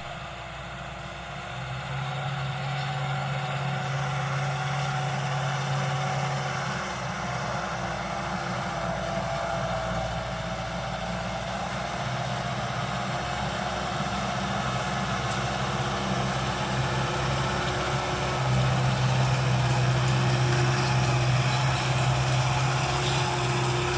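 Solis 90 HP tractor's diesel engine running steadily under light pitch changes, getting somewhat louder in the last several seconds.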